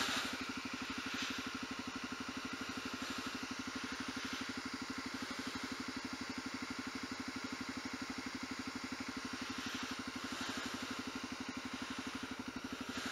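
Honda CRF250L's single-cylinder four-stroke engine idling steadily, an even run of firing pulses at constant speed.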